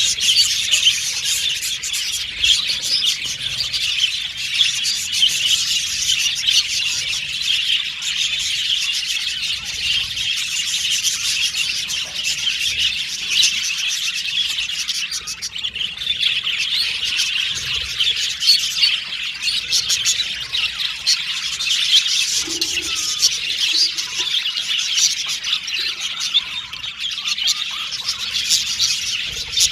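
A flock of budgerigars chattering, many birds warbling, chirping and squawking at once in a dense, continuous chorus.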